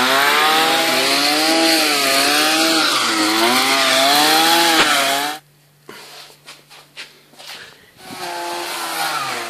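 Two-stroke chainsaw running hard, its pitch wavering up and down as it cuts wood. About five seconds in it suddenly drops to a faint low idle with a few light knocks, then picks up again near the end.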